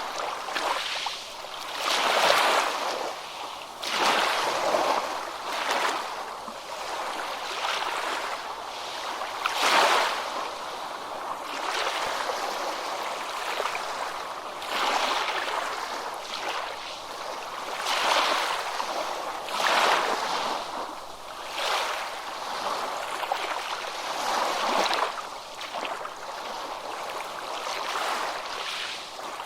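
Ocean waves breaking and washing up a beach, one surge after another every few seconds, with a steady hiss of surf between them.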